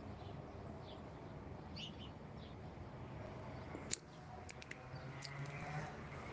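Small birds chirping a few times, faintly, over a steady low background rumble, with a sharp click about four seconds in and a few lighter clicks after it.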